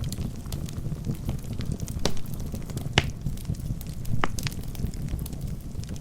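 Wood fire burning in a fireplace: a steady low rumble of flames with scattered sharp crackles and pops from the burning logs, a few louder snaps around the middle.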